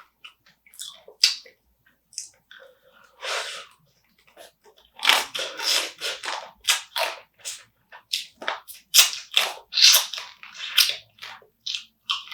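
Close-miked eating sounds of spicy marinated raw crab being chewed and crunched: a quick, irregular run of wet crackly bites, busiest from about halfway in.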